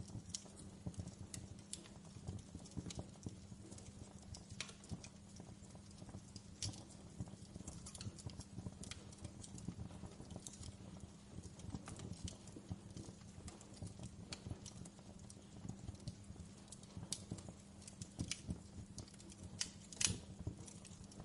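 Wood fire in a fireplace crackling: irregular sharp pops and snaps over a steady low rumble of the flames, with one louder pop near the end.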